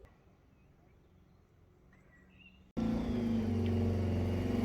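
Faint outdoor background, then, about two and a half seconds in, an engine running steadily starts suddenly at a cut and stays loud to the end.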